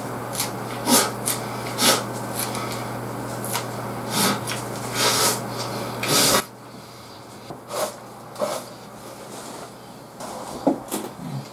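Close-miked chewing of a lettuce-wrapped mouthful of grilled beef and goya, with loud, heavy breaths through the nose coming every second or so. A steady low background hum stops about six seconds in.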